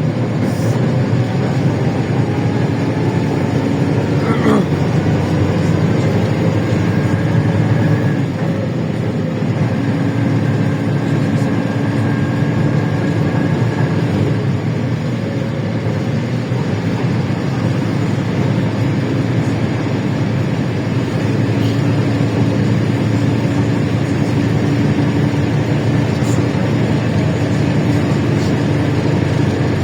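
LiAZ-677M city bus under way, heard on board: its V8 petrol engine and drivetrain run steadily with a low rumble and whining tones, one whine rising over the first few seconds as the bus picks up speed.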